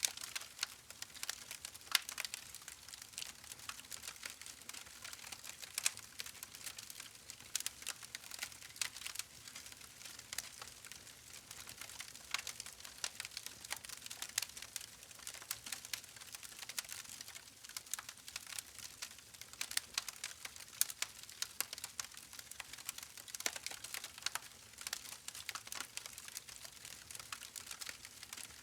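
Campfire crackling: a continuous stream of irregular sharp pops and snaps from burning wood over a faint hiss.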